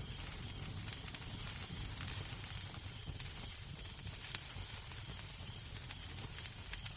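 Fireplace fire crackling, with frequent sharp pops and snaps over a steady low rumble and hiss.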